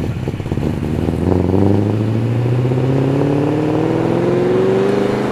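Ford Mustang's engine pulling away. From about a second in, its revs climb slowly and steadily as it drives off.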